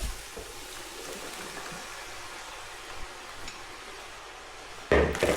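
Steady hiss of meat and onions sizzling in an Instant Pot on sauté. A brief loud clunk near the end.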